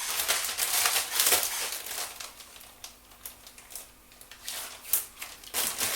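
Fresh spinach leaves rustling and crinkling as they are handled, dense for the first two seconds or so, then a few separate light clicks and knocks.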